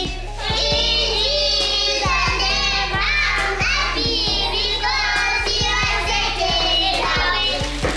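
Music with children's voices singing over a steady beat and bass.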